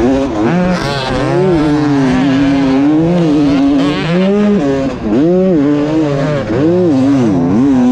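2020 Yamaha YZ250's single-cylinder two-stroke engine under race throttle, revving up and dropping back over and over as the rider opens and chops the throttle. Heard from the rider's helmet camera, with rushing noise underneath.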